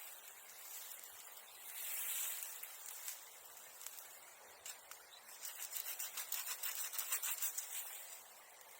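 Faint rasping strokes of a handsaw cutting wood or bamboo, about three strokes a second through the second half, after a soft rustle about two seconds in.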